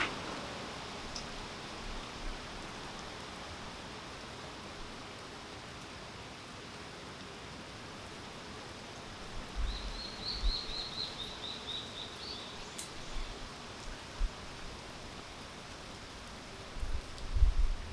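Steady rain falling, an even hiss of drops. About ten seconds in a bird gives a short trill of quick high notes, and low rumbling thumps come in briefly then and again near the end.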